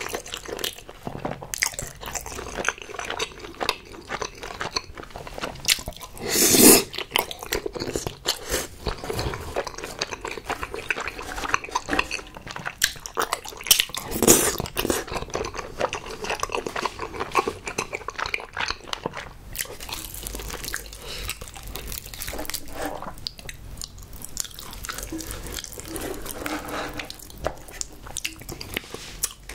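Close-miked chewing and biting of spicy tteokbokki rice cakes and skewered snacks, a steady run of irregular mouth clicks. Two louder bites or slurps come about six and a half seconds in and again about fourteen seconds in.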